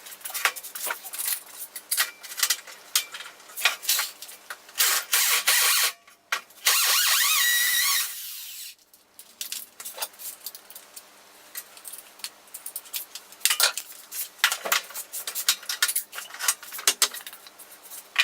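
Clatter and scraping of work on wood, then a power drill runs for about a second and a half, its whine rising, while boring the entrance hole in the nest box's front panel; more knocks and clatter follow.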